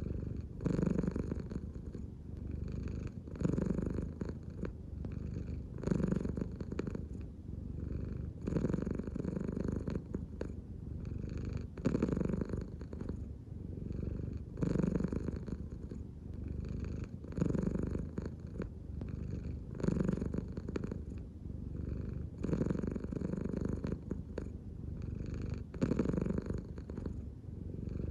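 American Shorthair cat purring steadily, the purr swelling and easing in a regular rhythm about once every two and a half to three seconds, in time with its breathing.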